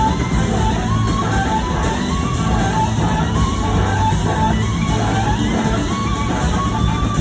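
Live band playing: an electric guitar carries a sustained melodic lead over bass and drums.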